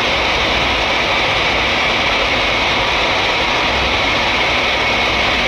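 Large natural-gas-fired steam boilers running, a steady rushing noise from their burners and combustion air, with a thin steady whine above it.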